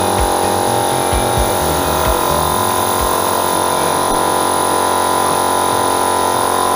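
Small airbrush compressor motor running with a steady, even buzz.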